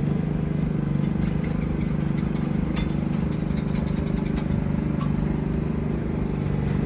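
An engine idling with a steady low hum, with scattered light clicks and clinks over it.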